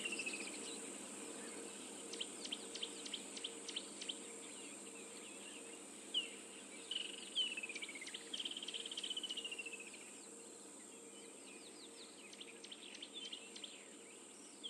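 Wild birds calling: scattered short chirps and clicks, with a few descending whistled calls clustered between about six and ten seconds in. Behind them runs a steady high-pitched hiss.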